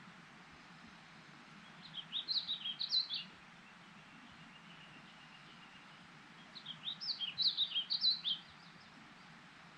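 A songbird singing two quick, jumbled phrases of high chirping notes, each lasting about a second and a half, a few seconds apart, over a steady faint hiss.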